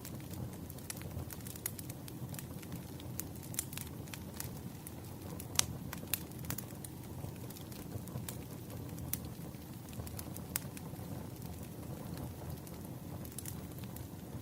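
Wood fire burning: a steady low rumble of flames with sharp crackles and pops scattered irregularly throughout, the loudest two pops about six seconds in.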